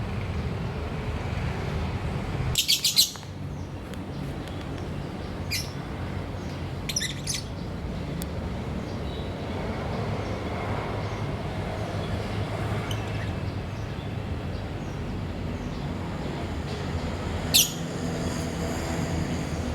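Lovebirds giving short, shrill chirps: a quick run of several about three seconds in, scattered single chirps a few seconds later, and a loud one near the end. A steady low rumble lies underneath.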